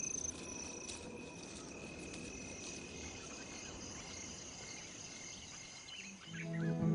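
Crickets chirping steadily, two high-pitched trills over a faint hiss of night ambience. About six seconds in, soft music with mallet-percussion notes fades in.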